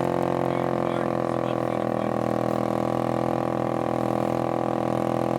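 A 2000 Pontiac Grand Am's heater vent, with something spinning fast in the blower airflow, making a loud, steady whirring drone.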